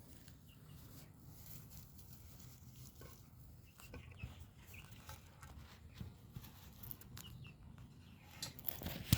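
Faint, sparse cheeping from nestling birds being hand-fed, with soft handling clicks and taps over a low steady hum.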